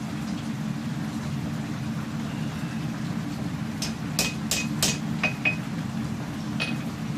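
Hammer blows on hot katana steel at the anvil: about seven sharp metallic strikes with a brief ring, a quick run of four about four seconds in, then two more and a last one near the end, over a steady low hum.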